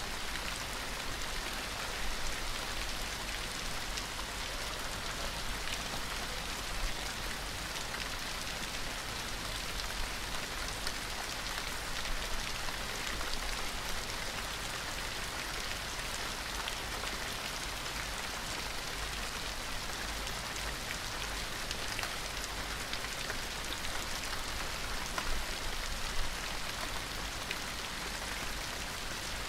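Gentle rain falling steadily: an even hiss with many small drop taps scattered through it.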